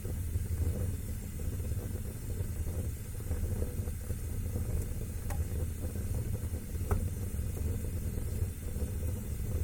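Wood fire burning in a fireplace: a steady low rumble of flame with two sharp crackling pops, about five and seven seconds in.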